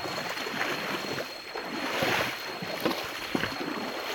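Shallow stream water splashing and sloshing irregularly, with a louder splash about two seconds in.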